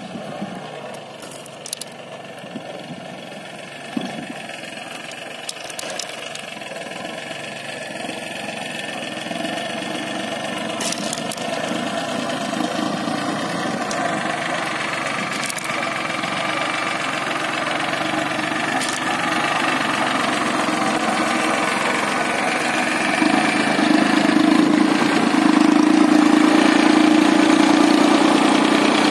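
Engine of a 22 hp mini tractor running, growing steadily louder, with a few sharp clicks during the first ten seconds.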